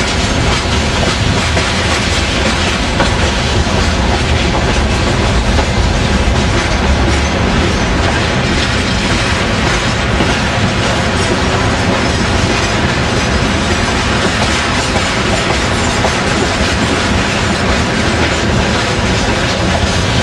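Train running on the rails with a steady, loud rumble.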